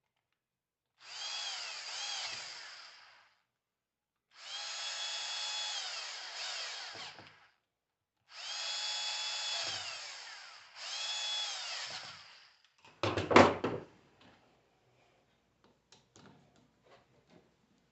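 A small electric power tool motor is run in four bursts of one to three seconds each. Each burst starts with a rising whine, holds steady, then winds down. About 13 seconds in there is one loud short clatter, followed by a few light ticks.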